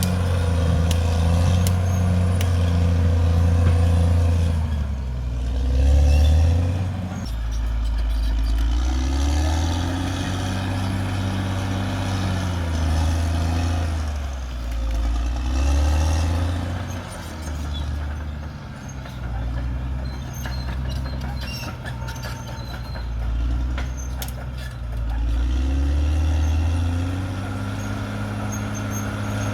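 Caterpillar D6R XL bulldozer's diesel engine working under changing load, its pitch dropping and climbing back every few seconds, with scattered clanks from the machine.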